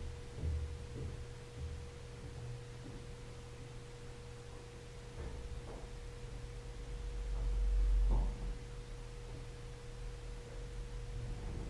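Steady electrical hum with a constant pure tone throughout, and a low rumble that swells and fades about eight seconds in.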